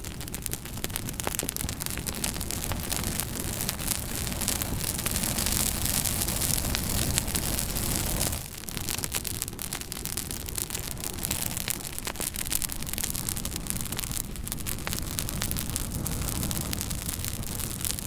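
Wood fire burning in a fireplace: a steady hiss and rush with frequent small crackles and pops, dipping briefly about halfway through.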